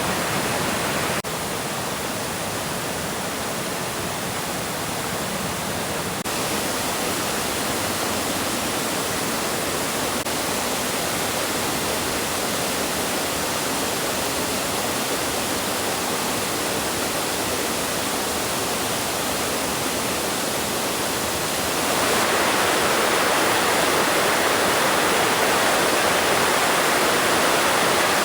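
Steady rushing of a waterfall, with abrupt shifts in loudness about a second in and about six seconds in, and louder and brighter from about 22 seconds on.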